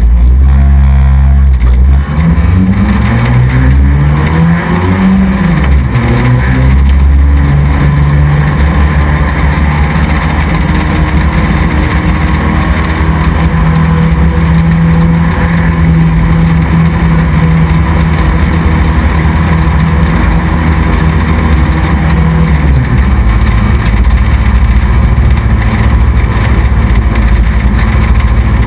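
Race truck engine heard from an onboard camera, revving up and down through the first few seconds, then running at a steady speed, and easing off about 23 seconds in.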